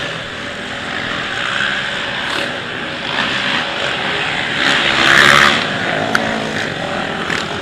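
Racing quad (ATV) engines running and revving hard, louder about five seconds in.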